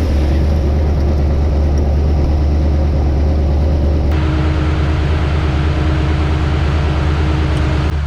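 An engine running steadily with a deep, even drone. About four seconds in, the high hiss drops away and the engine's tones come through more clearly.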